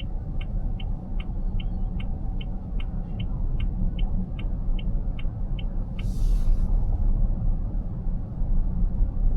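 A car's turn-signal indicator ticks about two and a half times a second over a steady low cabin road rumble. The ticking stops about six seconds in and is followed by a brief hiss.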